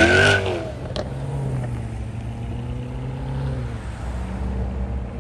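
Car engine revving hard, then the revs drop off sharply about half a second in and settle into a lower, steady engine rumble as the car drives away. A single sharp click about a second in.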